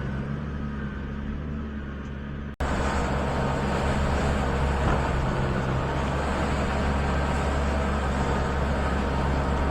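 Tractor engine running steadily while skidding a red oak log. Its sound breaks off sharply about two and a half seconds in and comes back louder, with more rattle and noise.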